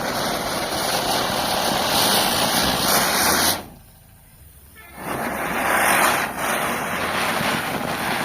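Diwali ground chakkar spinner fireworks hissing as they burn and throw sparks; the first one cuts off abruptly about three and a half seconds in, and after a short quiet gap a second one flares up and hisses on.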